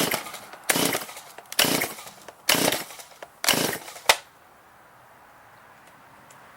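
STIHL MS170 chainsaw's recoil starter pulled about five times in quick succession, each pull a short rasp as the two-stroke engine turns over without firing. It is choked cold and has sat unused since last season. A sharp click comes about four seconds in, then the pulling stops.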